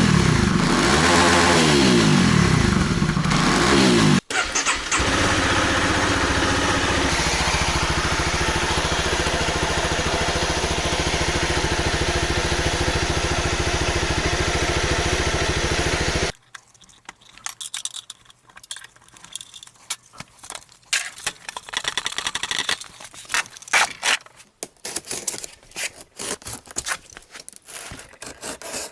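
Motorcycle engine revving in repeated swells, then running steadily after a brief break, cutting off abruptly about 16 seconds in. After the cut come light metallic clicks and clinks, like tools being handled.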